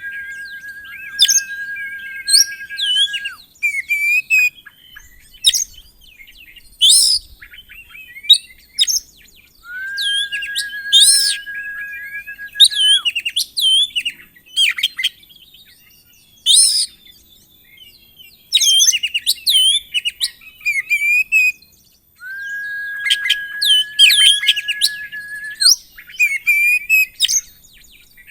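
Oriental magpie-robin singing loudly: sharp, piercing whistled notes and fast chattering phrases in quick succession. A long, steady whistle at one pitch sits beneath the song three times, each lasting about three seconds.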